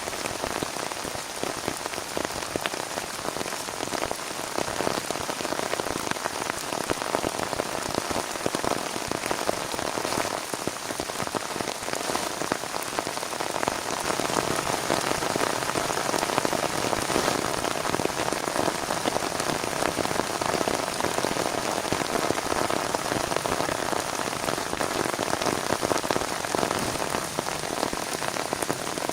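Heavy rain falling steadily: a dense, even hiss of countless drops striking a surface, with no let-up.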